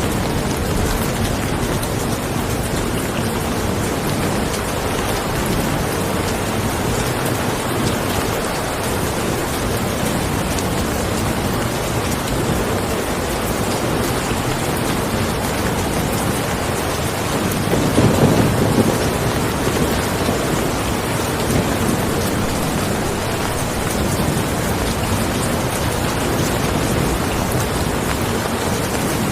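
Steady rain falling, an even hiss of many drops. A little past halfway a low rumble of thunder swells for a second or two and fades back into the rain.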